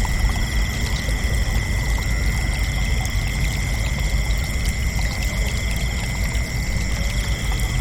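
Crickets chirping in a continuous, steady chorus of high trills, over a constant low rumble.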